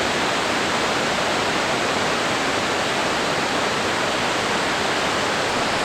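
Steady rushing of creek water pouring over rocks and cascades, a loud, even roar with no breaks.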